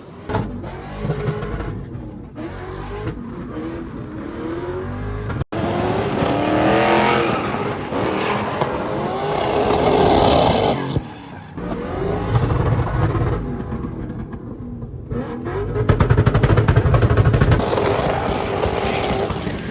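Truck engines revving hard up and down with tyres squealing and scrabbling, as in burnouts or drifting. The sound drops out for an instant about five seconds in.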